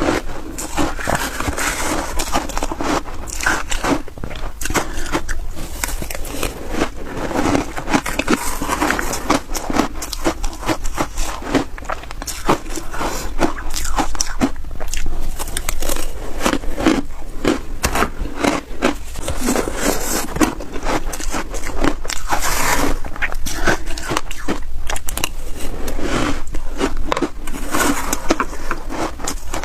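Close-up biting and chewing of snow ice, with dense crunching and crackling throughout.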